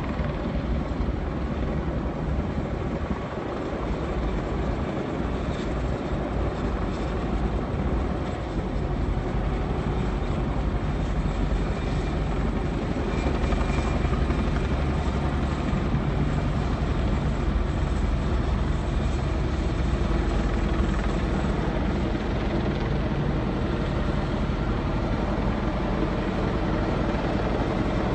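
Military helicopter flying overhead: a steady, loud rotor and engine roar that builds slightly about eight seconds in and holds.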